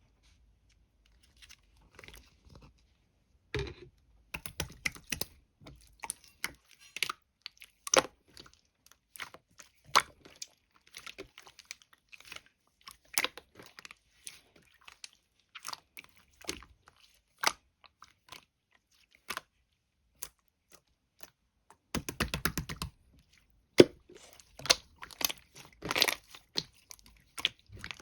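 Close-up eating of blueberry jelly: irregular crisp crunches, bites and wet chewing sounds, with a dense run of crunching a little past two-thirds of the way through.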